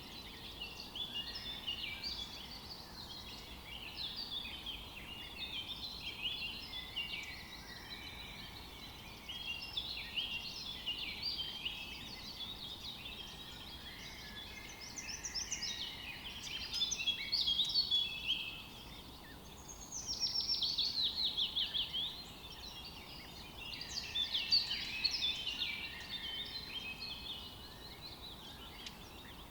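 Several songbirds chirping and singing over one another, with a fast run of repeated falling notes about two-thirds of the way through.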